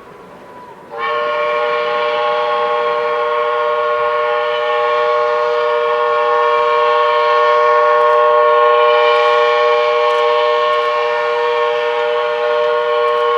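C2 steam locomotive's whistle blowing one long, steady blast that starts about a second in, two pitches sounding together.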